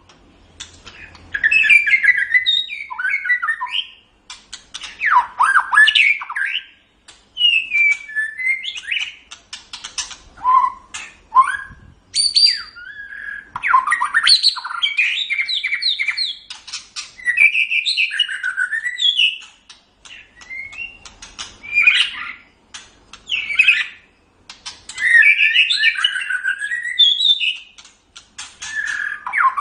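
White-rumped shama (murai batu) singing a loud, varied song. It comes in bursts of a few seconds of rapid whistled and trilled notes mixed with sharp clicks, with short pauses between phrases.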